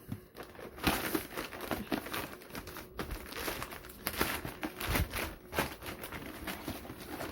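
Shipping packaging being crinkled and pulled at by hand as someone struggles to get it open: a busy, irregular run of rustles, crackles and scrapes.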